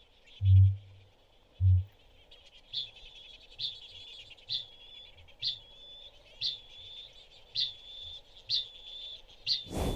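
Male kakapo booming: two deep, resonant booms, then a run of short, high metallic 'ching' calls about once a second, part of the breeding display. Insects hum steadily behind.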